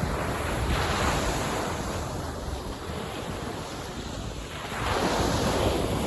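Ocean waves washing in, with two surges: one about a second in and a bigger one near the end. Wind rumbles on the microphone underneath.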